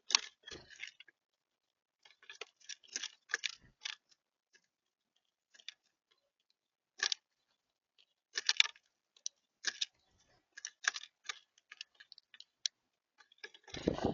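Seed being pecked and cracked on a bird feeder by a feeding animal, heard close to the microphone as irregular sharp clicks and crunches, with a louder bump near the end.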